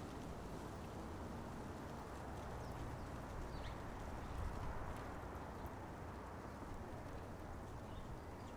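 Steady low outdoor rumble with a few faint, short bird chirps about three and a half seconds in, and scattered light ticks.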